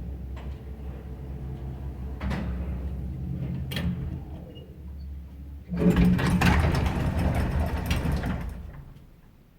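Old Soviet Samarkand-built passenger lift with an AS-62 motor: the drive hums steadily as the car travels, with two sharp relay or switch clicks. About six seconds in, a loud mechanical rattle of the automatic sliding doors opening takes over for about three seconds and then dies away.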